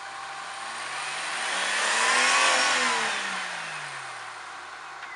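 A motor vehicle driving past: its engine note swells and rises as it approaches, is loudest about two and a half seconds in, then drops in pitch and fades as it goes by.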